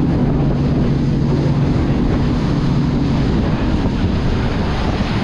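Tour boat's engine running with a steady low drone, under heavy wind buffeting the microphone and the wash of the sea.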